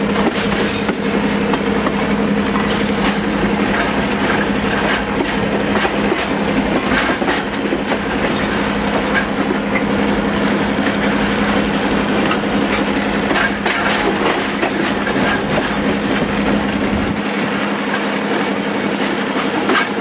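Narrow-gauge passenger train running, heard from one of its coaches: steady rumble of the cars with scattered clicks of the wheels over the rail joints and a steady low hum throughout.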